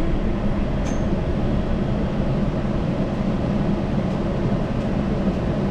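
Yurikamome Line rubber-tyred automated guideway train running along its track, a steady rumble with a low hum. A brief faint high tone sounds about a second in.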